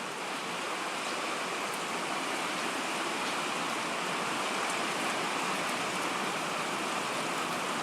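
Steady rain falling outdoors, mixed with the even rush of running water from an overflowing pond.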